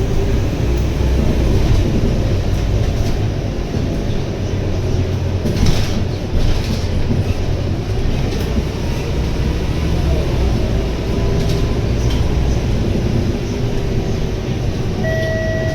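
A Scania K230UB city bus running on the road, heard inside the passenger saloon: the Scania DC9 diesel engine and ZF automatic gearbox give a steady low rumble, with body panels rattling and knocking now and then. Faint whines rise and fall in the middle, and a steady tone begins near the end.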